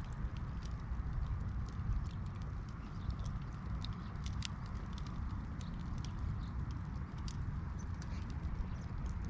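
Wood fire crackling and popping in irregular sharp snaps over a steady low rumble.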